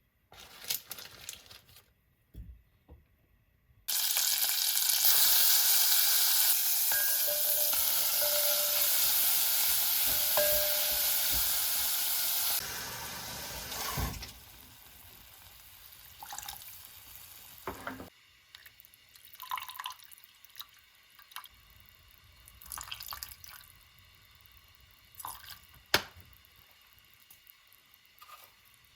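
Tap water running into a sink, a steady hiss that starts about four seconds in and is turned off after about nine seconds, followed by scattered light clicks and clatter.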